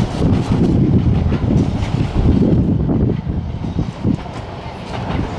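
Low rumble of a moving narrow-gauge train with wind buffeting the microphone, easing somewhat after about three and a half seconds.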